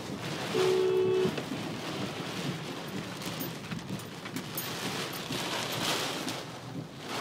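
Storm wind and rain rushing across the microphone in gusts. Near the start a horn sounds one short, steady two-note blast, louder than the storm.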